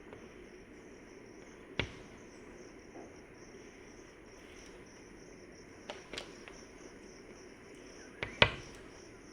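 Steady high-pitched chirring of insects, like crickets, with a few sharp knocks or taps: one about two seconds in, two around six seconds, and a louder pair near the end.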